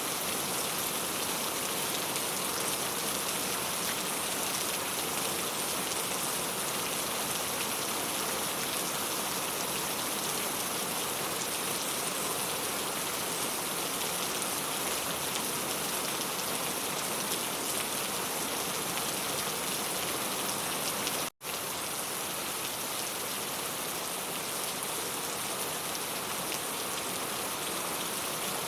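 Steady rain pattering on a clay tile roof, an even dense hiss of drops. The sound cuts out for an instant about two-thirds of the way through, then resumes unchanged.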